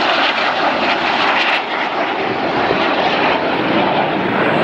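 Red Arrows' BAE Hawk T1 jets flying by, a steady loud rushing jet noise.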